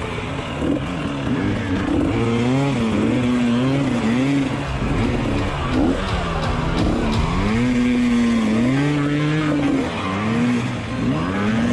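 Trail motorcycle engine revving up and down, its pitch repeatedly rising and falling as the throttle opens and closes while riding off-road.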